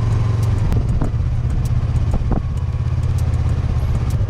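Motorcycle engine running at a steady pace, a low pulsing drone.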